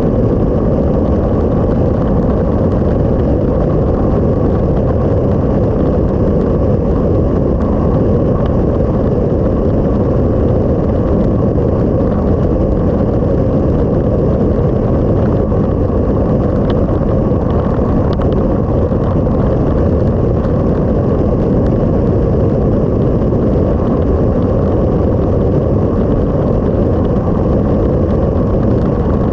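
Motorcycle riding along at a steady pace, heard from a camera on the bike: a steady low wind rumble mixed with the engine running.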